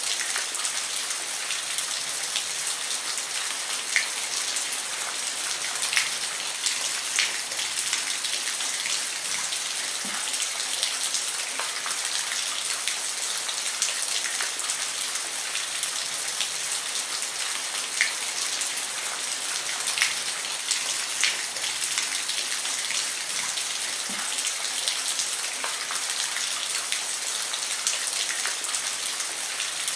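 Steady rain falling on a roof: a dense even patter with scattered louder individual drops striking.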